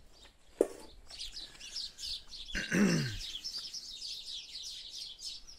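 Small birds chirping and singing continuously in the background. About two and a half seconds in, a short, low, voice-like sound falls in pitch and is the loudest thing heard. Just after half a second there is one sharp knock.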